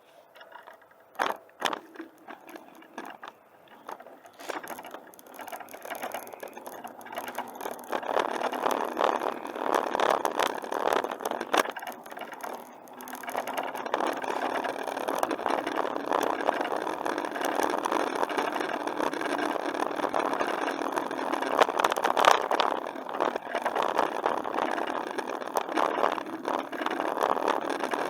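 Bicycle in motion: a few sharp clicks near the start, then a continuous rattling, scraping noise of tyres and frame over the trail surface that builds over the first several seconds and carries on, swelling and easing.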